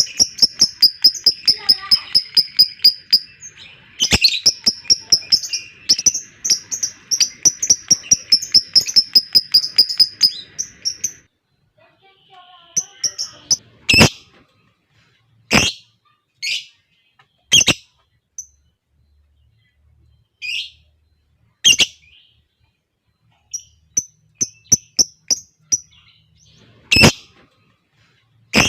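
Lovebird giving a long 'ngekek' chatter: a fast run of sharp, high, repeated notes lasting about eleven seconds, with a short break near four seconds. After that come single sharp high chirps every second or two.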